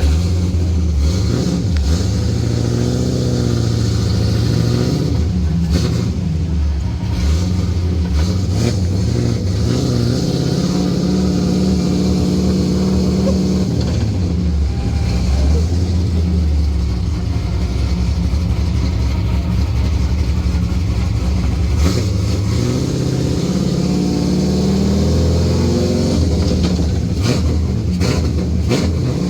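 Cammed 4.8-litre LS V8 with long-tube headers in an E46 drift car, heard from inside, running at fairly low revs that rise and fall, with a climb in revs about 22 seconds in.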